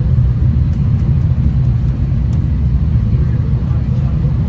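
V/Line train running at speed, heard from inside the carriage: a steady low rumble of wheels and running gear on the track.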